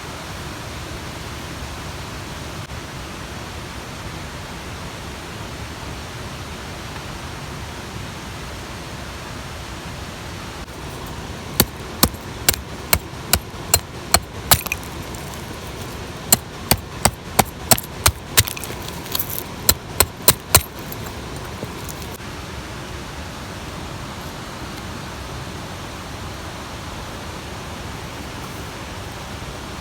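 Steady rush of a mountain stream. In the middle, about twenty sharp knocks come in three quick runs, two or three a second.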